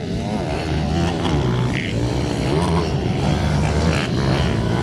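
Minibike engines running at race pace, several pitches rising and falling as the riders work the throttles.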